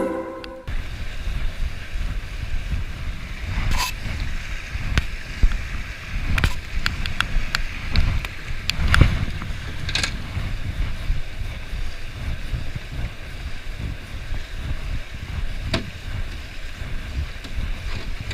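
Wind rumbling on the microphone over a steady hiss of moving water, with scattered sharp knocks and clicks.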